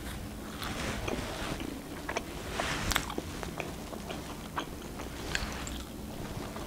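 A person biting into and chewing a slice of pepperoni pizza, with small wet mouth clicks at irregular intervals.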